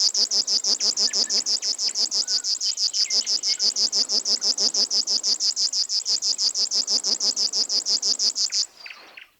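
River warbler singing its dry, insect-like song: a fast, even train of about ten high buzzing strokes a second. The song stops near the end.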